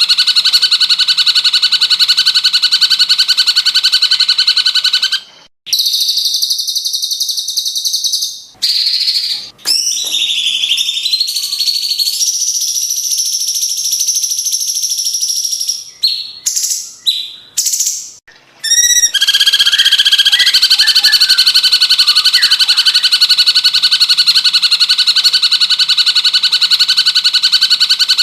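Recorded cucak cungkok song played as a mastering track for a white-rumped shama: a long, fast, buzzing trill, then a stretch of short varied whistled notes and pitch slides with brief pauses, before the fast trill returns.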